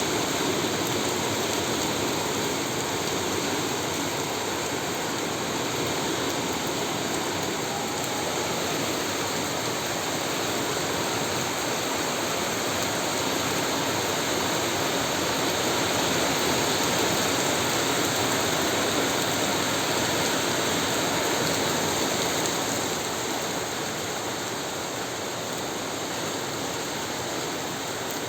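Steady heavy rain falling, an even hiss that eases a little near the end.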